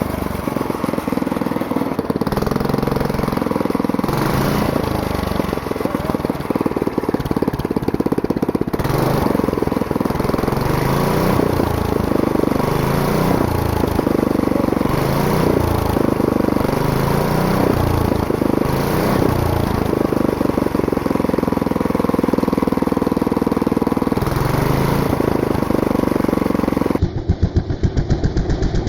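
Small single-cylinder 136 cc, 4 hp go-kart engine running and being revved up and down repeatedly. Near the end the sound changes abruptly to a faster, rapid pulsing.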